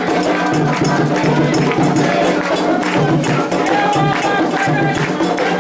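Candomblé ritual chant: voices singing over a steady beat of drums and percussion.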